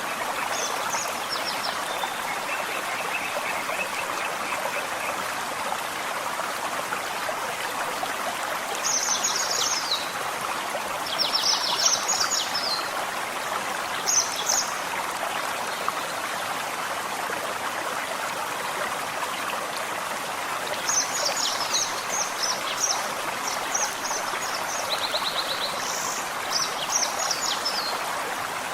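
Forest stream running steadily, with songbirds singing over it in short phrases of quick, high notes: a low trill early on, then clusters of phrases around ten to fifteen seconds in and again through the last third.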